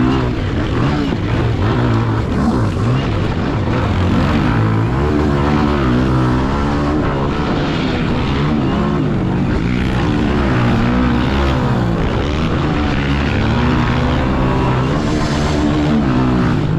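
Pit bike engine revving up and down again and again as the throttle is worked around the track, heard from on board, over a steady rush of wind noise.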